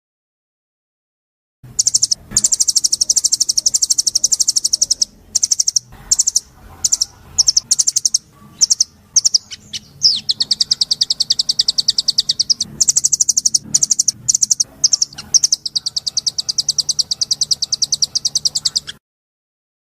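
Caged songbird singing long, very fast rattling trills of high notes, broken by short pauses; it starts about two seconds in and cuts off abruptly near the end.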